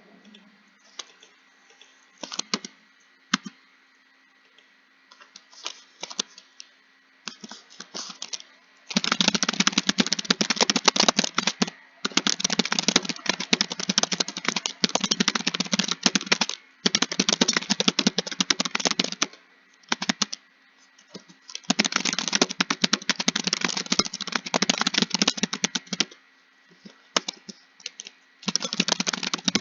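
Typing on a computer keyboard. For the first several seconds there are only scattered single keystrokes, then fast continuous runs of typing a few seconds long, broken by short pauses.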